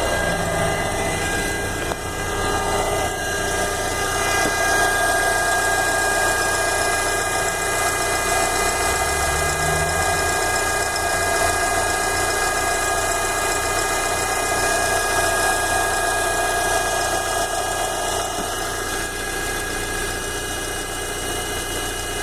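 Fiat Palio 1.4 engine idling, heard from underneath close to the oil pump, with a steady high tone over the running. It is the noise that the owner traced with a mechanic's stethoscope to a failing oil pump.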